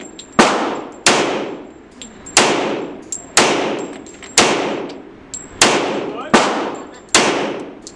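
A steady string of gunshots on a shooting range, about one a second, each sharp crack followed by a ringing decay, with fainter shots from other lanes between them.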